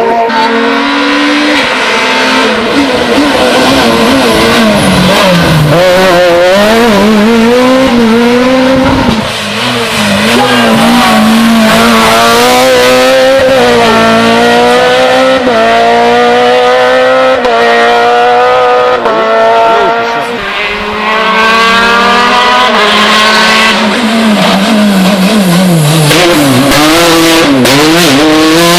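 Rally car engine driven hard on a special stage. Its pitch climbs and drops over and over as it shifts up and down through the gears, with two brief lifts off the throttle.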